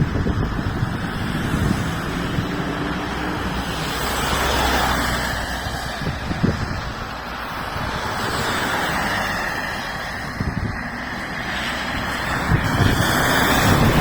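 Car driving on a road: steady engine and road noise that swells and fades a few times, with a few short low knocks.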